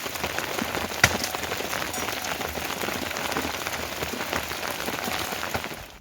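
Steady rain falling, a dense haze of many small drop ticks, with one sharper tick about a second in; it cuts off just before the end.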